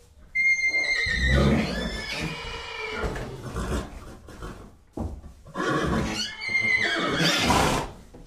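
A horse neighing twice: two long whinnies, each beginning high and wavering and ending lower and rougher, the first about a third of a second in and the second about five seconds in.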